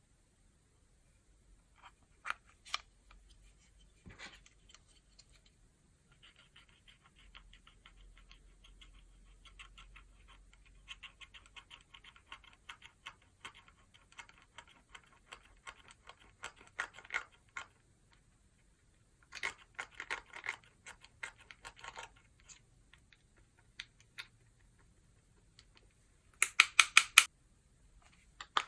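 Clear slime being worked by hand, with long runs of fine crackling clicks as air bubbles pop in it and a louder burst of quick clicks near the end.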